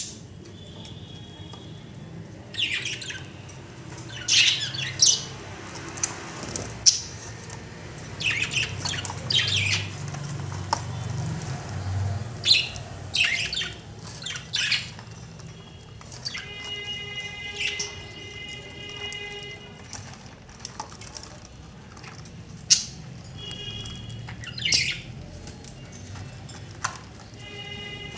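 Pet budgerigars squawking and chirping: sharp, short high calls every second or so, with a few longer, steadier chirping notes about two thirds of the way through.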